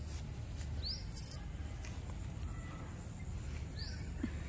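A bird gives two short, rising chirps, about three seconds apart, over a steady high-pitched whine and low outdoor rumble. A brief sharp click sounds about a second in.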